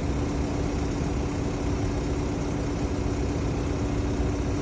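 Heavy diesel truck engine idling steadily: a low, even rumble with a steady hum over it.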